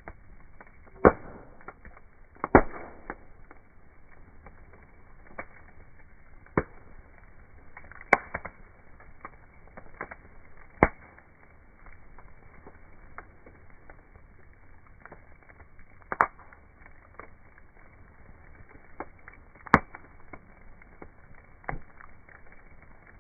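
Wood campfire crackling: sharp, irregular pops every second or two over a low steady hiss.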